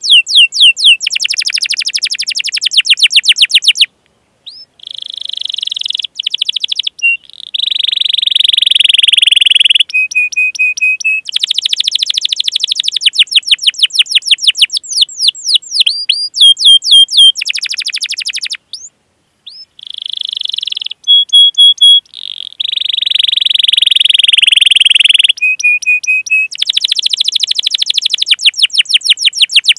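Domestic canary singing a long, loud song: fast trills of rapidly repeated sweeping chirps, alternating with sustained rolling trills, broken by a couple of brief pauses.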